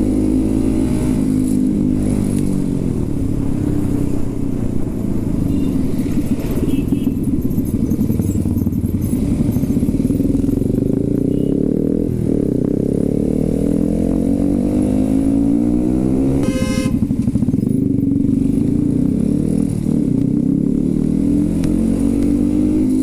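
Motorcycle engine heard from the rider's own bike while riding, its pitch repeatedly rising and falling as the throttle opens and closes through the gears. A brief high-pitched beep sounds about two-thirds of the way through.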